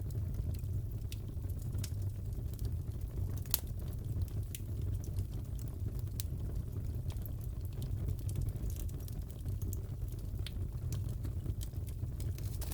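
Crackling fireplace: a steady low rumble of burning logs with scattered sharp pops and crackles at irregular intervals.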